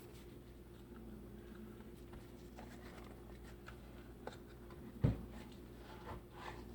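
Faint clicks and scrapes of hands working at the black cover on a Milwaukee 6507 Sawzall, trying to pry it off, with one louder knock about five seconds in.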